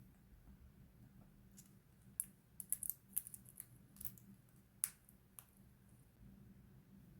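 Faint, sharp little clicks and taps, scattered, with a quick cluster of them in the middle.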